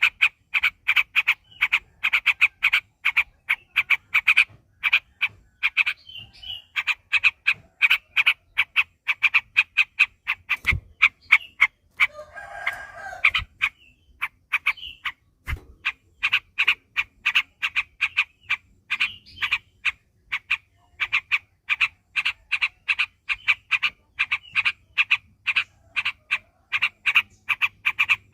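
Yellow-vented bulbul (trucuk) singing a long, rapid-fire song: short bright notes repeated about four a second, with only brief pauses. About halfway through, a short, lower and longer call cuts across it.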